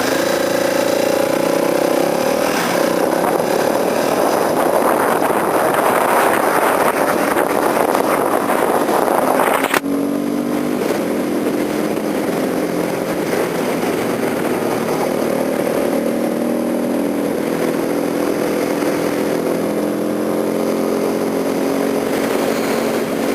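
Kawasaki KLX250SF supermoto's single-cylinder engine pulling away and accelerating, its pitch climbing, with wind noise building. About ten seconds in, the sound changes abruptly, and the engine runs on at lower revs with its pitch slowly rising.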